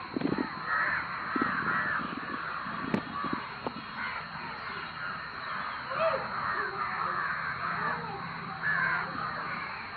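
A flock of crows cawing, many calls overlapping one another without a break.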